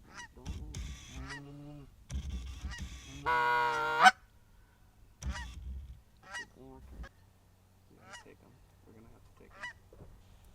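Canada goose honks and clucks: a string of short calls, with one longer, louder honk about three seconds in.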